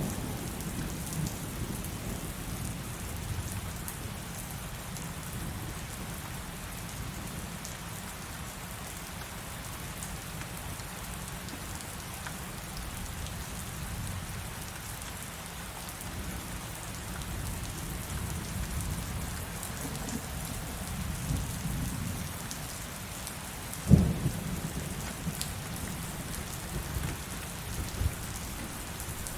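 Heavy rain falling steadily, under low thunder that rumbles and swells. Late on there is one sharp, loud thunderclap, followed a few seconds later by a smaller crack.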